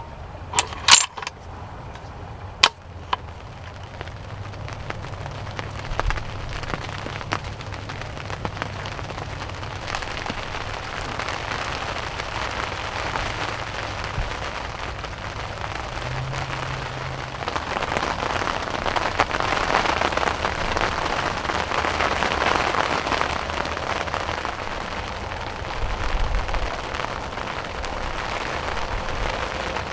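A few sharp metallic clicks in the first three seconds as the scoped rifle is handled and loaded. Then rain pattering on the ground blind, growing heavier from about ten seconds in and heaviest around twenty seconds.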